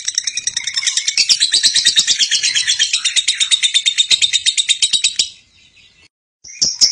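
Lovebird singing its long ngekek: a fast, unbroken chatter of rapid repeated high chirps. It breaks off about five seconds in, goes quiet for about a second, then starts again.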